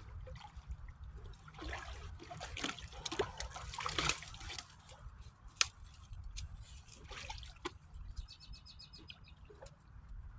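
Water splashing and sloshing as a trapped beaver is hauled up out of the water, with irregular splashes busiest in the first half.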